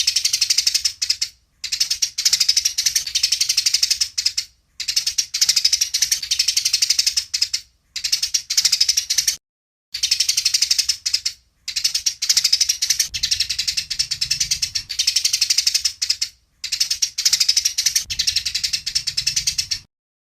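Eurasian tree sparrow chattering in fast, rattling runs of rapid notes, about seven bursts separated by short pauses, the excited fighting chatter.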